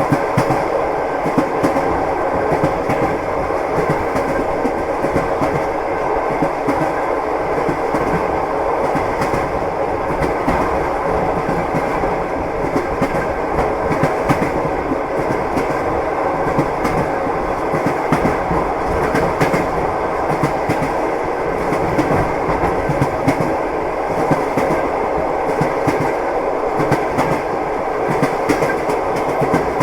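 Train wheels clattering over the rails: a steady rumble with frequent clicks and knocks that keep on unbroken.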